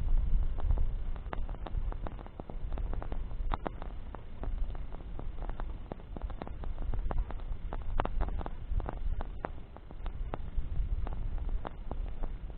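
Campfire of burning branches crackling, with frequent irregular sharp snaps and pops over a low rumble that swells and fades.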